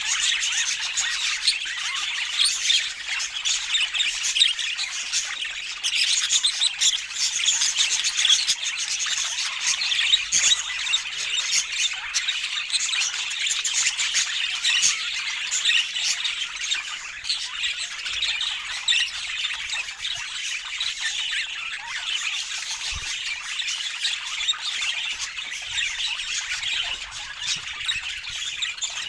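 Budgerigars chattering, a dense, unbroken stream of quick chirps and squawks with many calls overlapping.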